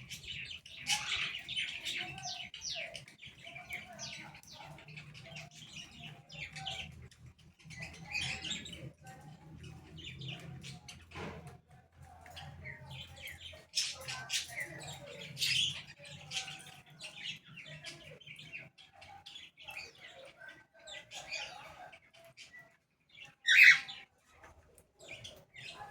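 Birds chirping in short, scattered calls, with one louder, brief call near the end.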